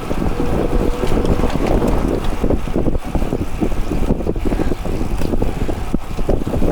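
Loud wind buffeting on the microphone, a constant fluttering noise that does not let up.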